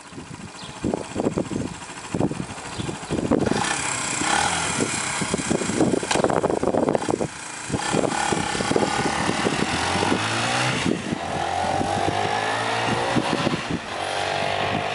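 Suzuki RV125 Van Van motorcycle's 125 cc single-cylinder four-stroke engine running, with irregular clatter and knocks at first, then revs rising and falling in the second half.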